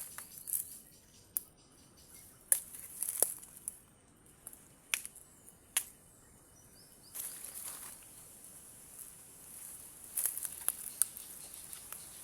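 Scattered sharp snaps and crackles of dry vegetation with bursts of rustling and brushing, as leaves and stems are handled or pushed through.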